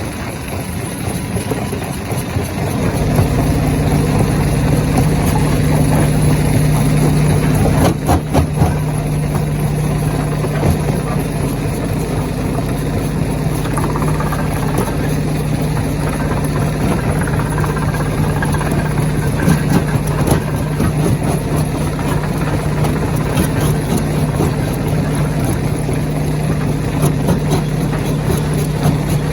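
Stone crusher machine running with a steady low hum that grows louder about three seconds in, with a few sharp knocks about eight seconds in and scattered clatter of rock.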